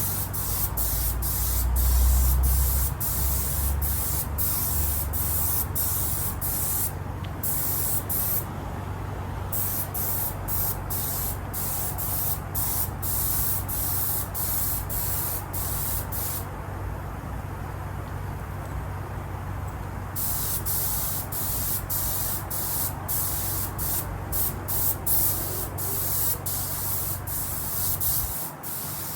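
Compressed-air paint spray gun hissing in many short bursts as the trigger is pulled and released, with a few longer pauses. A low steady hum runs underneath and stops abruptly near the end.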